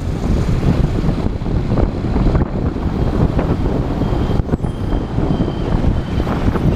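Motorcycle riding through city traffic: wind rushing over the onboard camera's microphone, mixed with engine and road noise.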